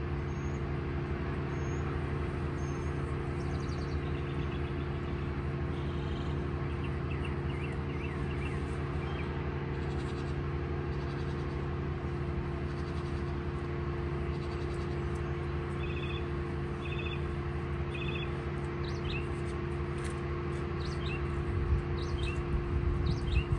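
Wild birds chirping and trilling in short calls over a steady low machine hum. A loud gust of wind buffets the microphone near the end.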